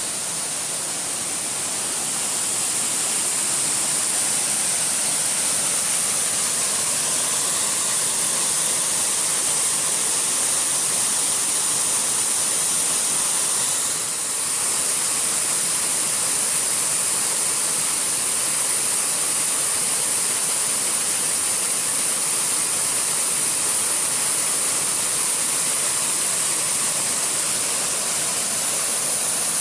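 Waterfall pouring steadily: a loud, even rush of falling water that swells over the first few seconds and dips briefly about halfway through.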